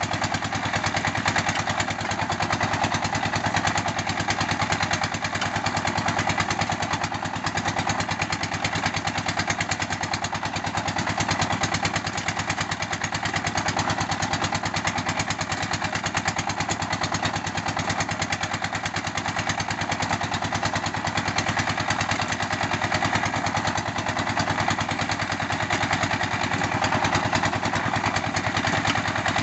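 Engine of a red-brick molding machine running steadily, with a fast, even beat.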